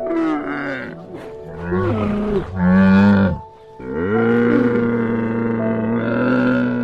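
Cow mooing: a couple of shorter moos, then one long, steady moo.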